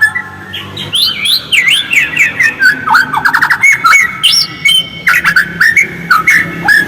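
White-rumped shama (murai batu) singing a fast, varied run of clear whistles, upward and downward sweeps and chirps, with a quick rattling trill about three seconds in.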